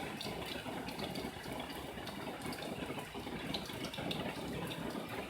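Heavy rain pouring down in a steady hiss, with close drops and splashes hitting now and then.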